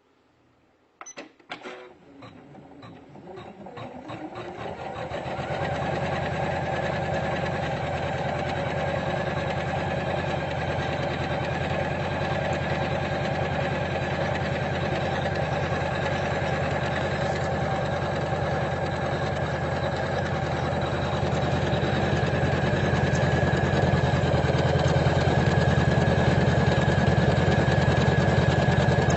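Usha Janome Memory Craft computerized embroidery machine starting up with a few clicks about a second in, speeding up over the next few seconds, then stitching steadily at a fast, even rate, a little louder near the end.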